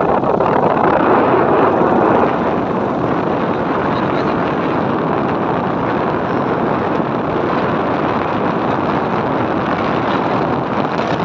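Steady rush of wind on the microphone from a moving motorcycle, mixed with its engine and road noise; slightly louder for the first two seconds.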